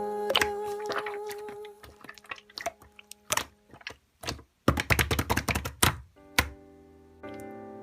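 Background song fading out, then a run of sharp, irregular crunches and clicks of crisp fruit, densest around five seconds in. Soft music chords come back in near the end.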